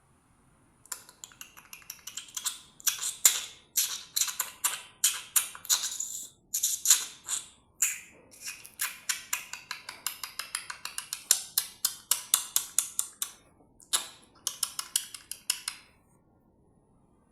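Swiftlets giving rapid dry clicking rattles, trains of sharp clicks several per second in bursts with short pauses. The calls start about a second in and stop near the end.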